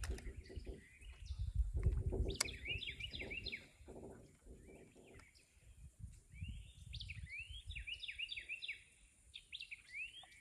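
A songbird chirping in quick series of short rising chirps, in two bouts. Low rumbling handling noise is heard over the first few seconds.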